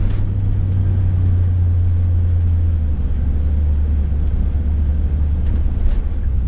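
Ford Econoline van's engine and road noise heard from inside the cab while driving: a steady low drone whose pitch drops about halfway through as the engine eases off.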